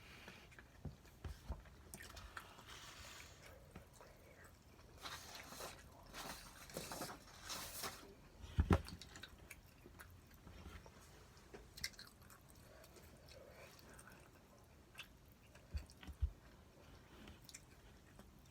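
A person chewing and biting food close to the microphone, a meal of spicy stir-fried pork, with small scattered clicks of eating and one sharp knock about halfway through.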